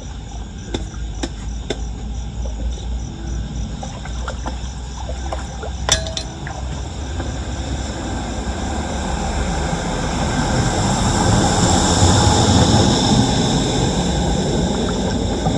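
Floodwater rushing and gurgling down a street drain, growing louder from about halfway through, with a few sharp knocks in the first half.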